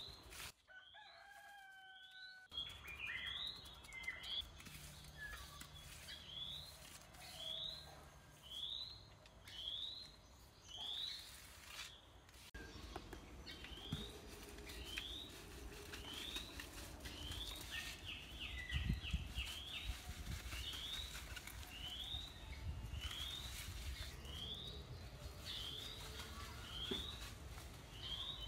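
A bird calling over and over, a short rising note about once a second, with a few low thuds partway through.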